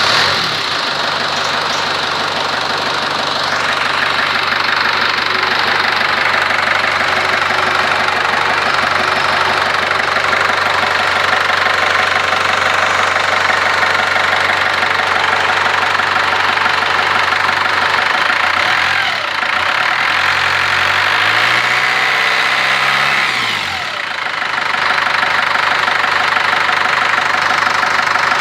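Ford Transit 2.5 diesel engine idling just after starting. About two-thirds of the way through it is revved up once for a few seconds, then drops back to idle.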